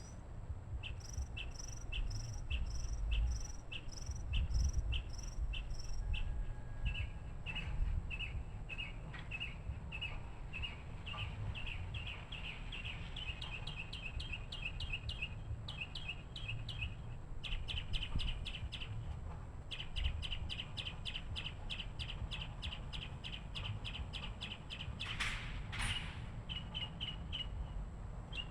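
A bird calling over and over in short high chirps, about two a second at first, then in quicker runs of chirps. A steady low rumble sits underneath, and there is one brief noisier call near the end.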